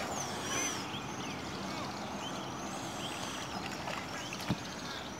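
Birds singing and calling, many short whistled chirps and rising and falling notes overlapping, with one brief knock about four and a half seconds in.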